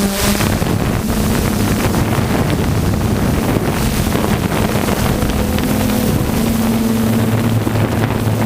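An engine running steadily with a low hum, with wind buffeting the microphone.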